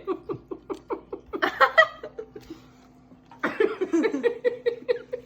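A person laughing in quick repeated bursts, in two bouts about a second and a half apart, over a faint steady hum.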